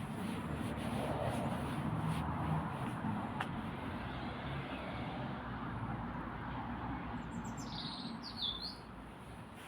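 A songbird calls once near the end, a short cluster of quick high whistled notes gliding down and up, over a steady low background noise.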